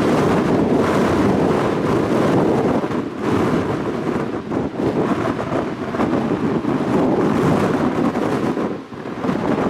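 Jet airliner departing at takeoff power, a deep rumbling engine noise that swells and fades, mixed with gusty wind buffeting the microphone.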